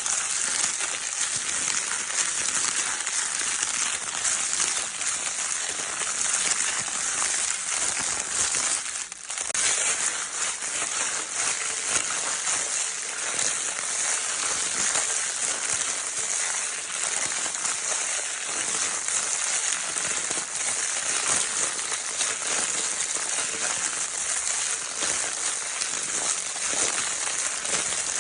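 Baby crinkle paper toy being crinkled without pause: a dense, steady crackling hiss made of many tiny clicks, with a brief lull about nine seconds in.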